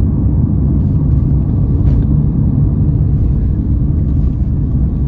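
Steady low rumble of a vehicle in motion, with no clear engine pitch.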